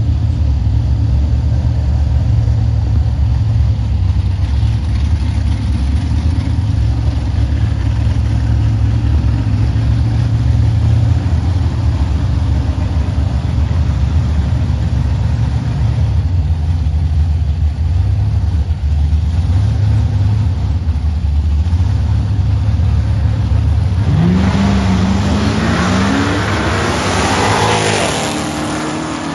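LS-swapped 1981 Chevrolet C10 pickup at the drag strip: a loud steady low engine rumble, then about 24 seconds in the engine revs up hard, its pitch climbing twice as it accelerates down the track, fading near the end.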